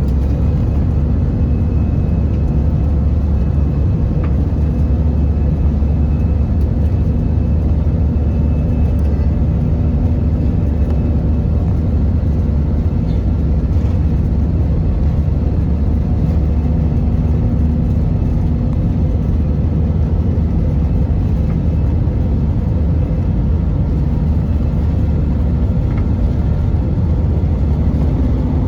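Airbus A320-200 cabin noise: a loud, steady low rumble of jet engines and airflow, with a faint steady whine above it.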